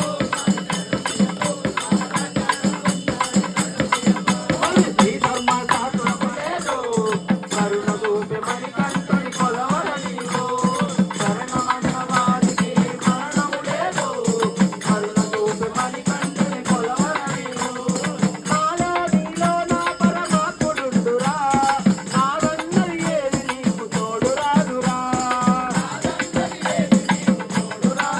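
Devotional bhajan singing to Lord Ayyappa, accompanied by a fast, steady jingling rhythm from a tambourine or similar shaken hand percussion.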